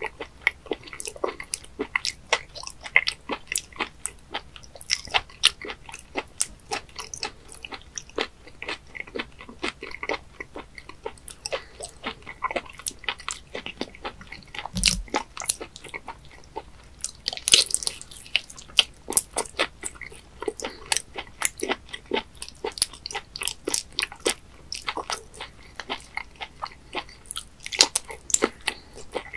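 Close-miked chewing and wet mouth sounds of raw webfoot octopus: dense, irregular sticky smacks and clicks. A single low thump comes about halfway through.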